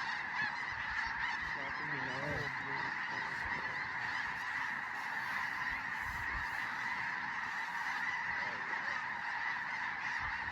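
A large flock of snow geese calling overhead: a dense, steady clamor of many overlapping honks.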